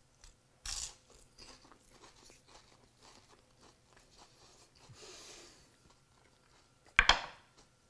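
A person biting into and chewing a crispy baked phyllo pastry cup. There is one crisp crunch about a second in as the shell breaks, then a run of small crackles as it is chewed. A short, louder burst comes near the end.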